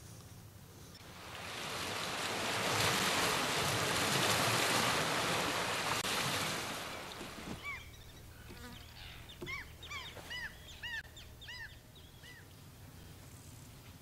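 A broad rushing noise swells for several seconds and dies away. It is followed by a bird calling a quick series of short, arched chirps, about two a second, for several seconds.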